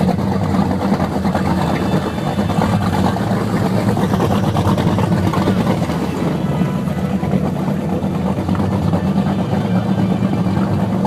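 Fountain 35 Lightning powerboat's engines running with a steady low drone, over rushing noise from the water.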